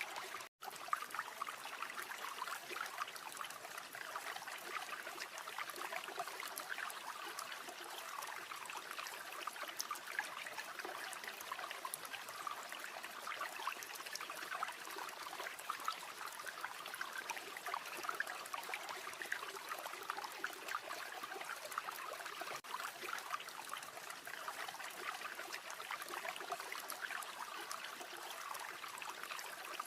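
River water flowing steadily over stones, a dense, even rush. It cuts out for an instant about half a second in.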